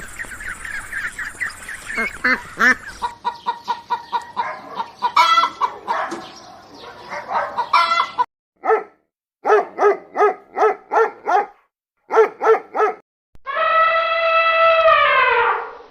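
Geese honking for the first few seconds, then chickens clucking in quick, evenly spaced calls. Near the end a rooster crows one long call that drops in pitch as it ends.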